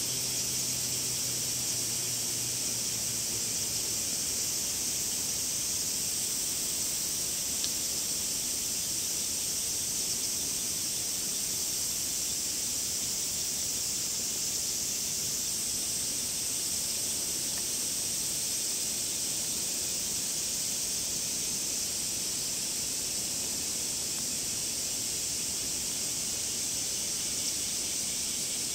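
Cicadas calling in a steady, high-pitched, unbroken chorus.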